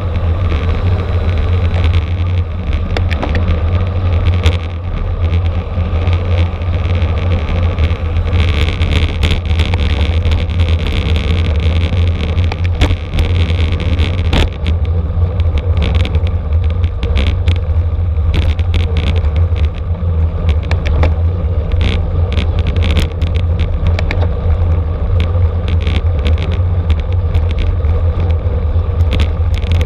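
Wind rumbling over the microphone of a camera riding along at bicycle-racing speed, with frequent sharp clicks and rattles from the bike over the road.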